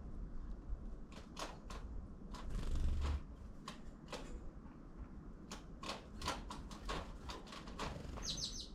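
A tit pecking and hammering at food, giving irregular sharp taps, with a brief low rumble about three seconds in. Near the end the tit gives a quick high call of about four short notes.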